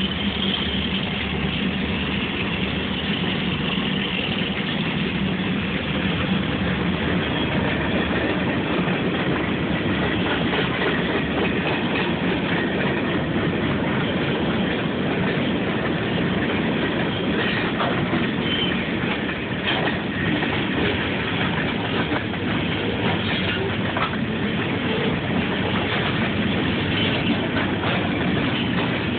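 Long freight train rolling past, its steel wheels clattering over the rail joints in a steady rumble with scattered sharp knocks.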